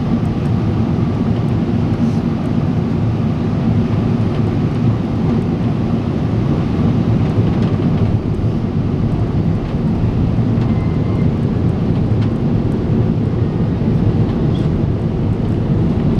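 Steady cabin noise inside a Boeing 777-300 airliner: engine and airflow noise with a deep low hum, holding level throughout.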